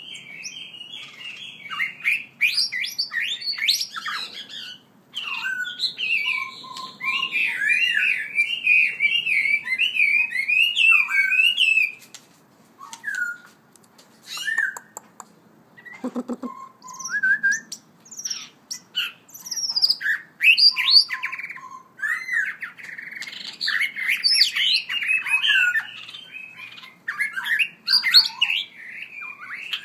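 Songbird singing a long, rapidly varied warbling song of whistled phrases, thinning out briefly about halfway before going on.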